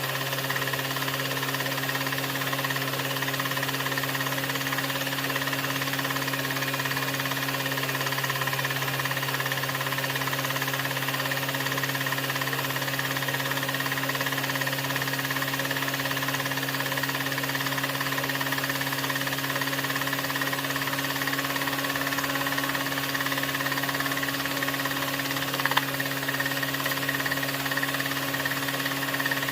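16mm film projector running: a steady mechanical hum and clatter over hiss, with one click near the end.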